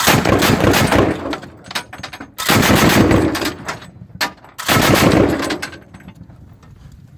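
Three bursts of loud, rapid mechanical rattling, each lasting about one and a half to two seconds.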